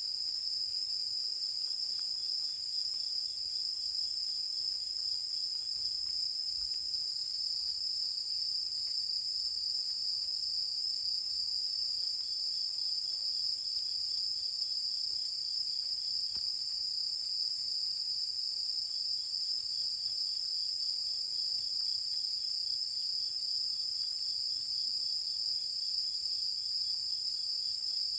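Night chorus of insects: a steady, unbroken high-pitched trill, with a fainter, lower pulsing trill joining in and dropping out several times.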